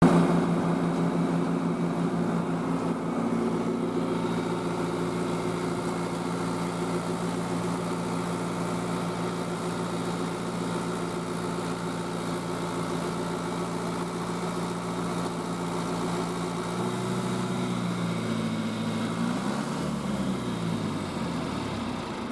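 A vehicle engine running with a steady hum; about three-quarters of the way through its pitch slides down and back up as the engine speed changes.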